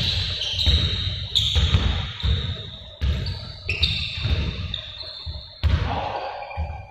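Irregular dull thuds, several a second, mixed with short high squeaks, echoing in a large room.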